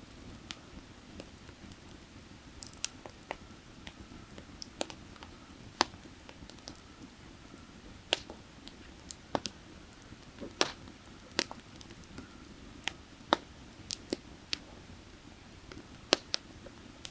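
Burning firewood crackling, with irregular sharp pops scattered a few seconds apart, over a low steady rush of a nearby creek.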